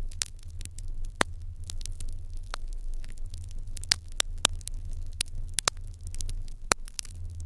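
Wood fire burning in an irori hearth, crackling and popping in irregular sharp snaps, several a second, over a steady low rumble.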